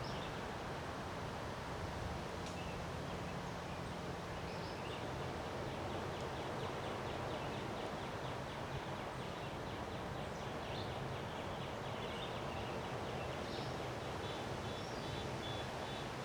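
Steady rush of wind during a windstorm, with faint bird chirps here and there, a rapid chattering trill in the middle and short high notes near the end.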